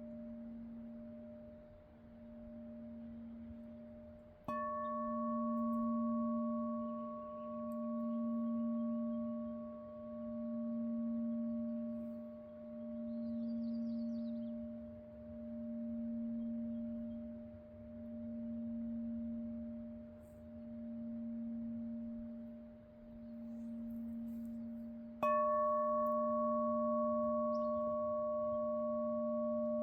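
Singing bowl humming with a steady low tone that swells and fades about every two and a half seconds. It is struck twice, about four seconds in and again near the end, and each strike adds brighter, higher ringing tones that sustain.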